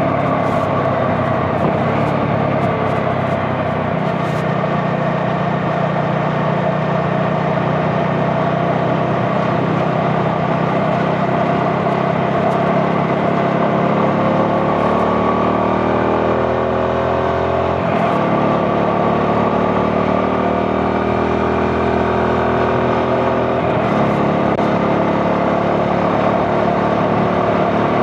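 CFMoto 250NK's single-cylinder engine running under way. The engine note climbs as it pulls through a gear and changes abruptly at a gear shift about two-thirds of the way through.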